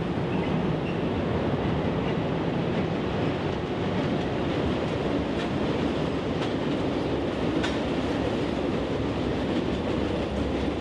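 Excursion train hauled by two Alco C420 diesel locomotives rolling by at steady speed: an even rumble from the engines and cars, with a few faint clicks from the wheels on the rails.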